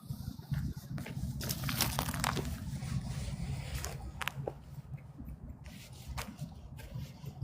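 Irregular crunching and crackling over an unsteady low rumble, busiest about two seconds in.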